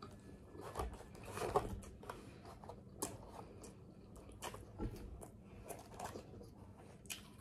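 Close-miked chewing and lip smacking on a bite of a turkey sub sandwich with shredded lettuce. It comes as a run of scattered wet clicks and smacks, loudest about a second and a half in.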